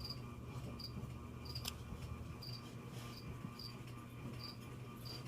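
A cricket chirping in short, high chirps, about eight of them spaced half a second to a second apart, over a steady low hum, with one sharp click about a second and a half in.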